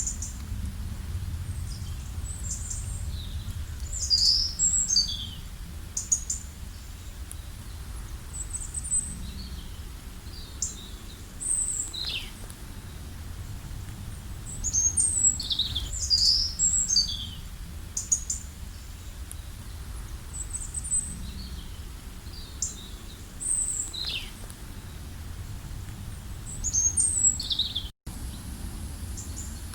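Songbirds chirping and calling in short, quick, high notes, many of them sliding down in pitch, over a steady low rumble. The sound drops out for an instant near the end.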